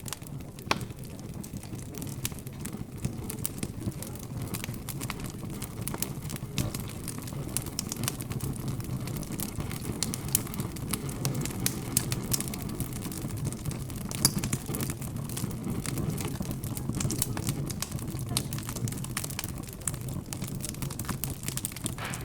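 Fire crackling steadily with frequent sharp pops, over a low, indistinct hum of background chatter.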